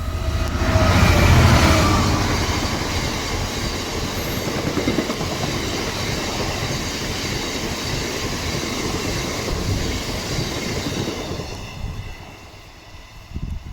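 A train passing close by at a level crossing: loudest as it arrives about a second in, then a steady rush of wheels on rails for about ten seconds, dying away near the end.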